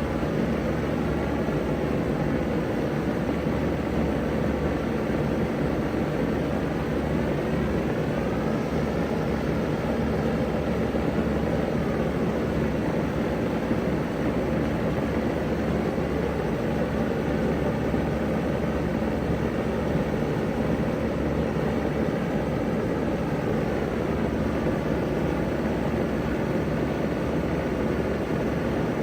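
Vintage ZoneAire wall-hung heat pump running steadily in cool mode: an even rush of fan air with a low, steady hum from the compressor and motor.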